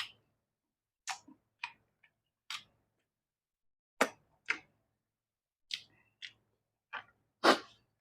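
Close-up eating sounds: short, crisp chewing crunches and mouth smacks, about a dozen at irregular intervals, the loudest near the end.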